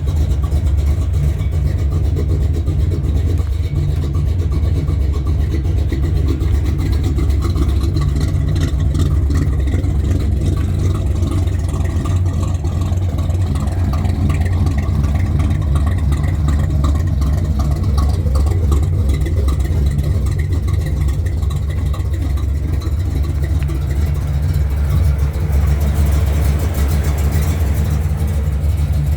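1970 Chevy C10 pickup's engine running steadily, a continuous low drone without revving.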